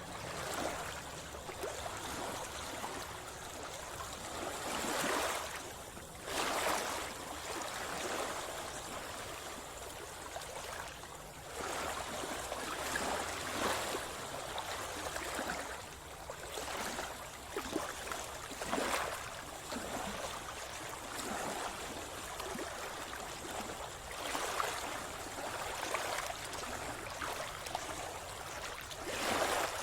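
Sea water splashing and sloshing around a swimmer at the surface, in irregular louder surges every few seconds over a steady watery wash.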